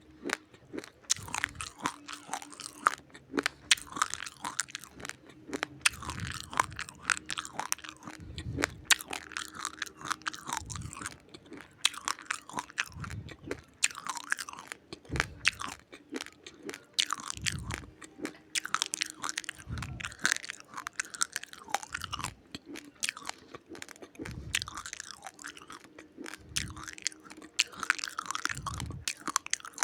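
A person chewing a mouthful of raw, uncooked rice grains close to the microphone: many rapid, sharp crunches, with a dull low thud from each bite about every one and a half to two seconds.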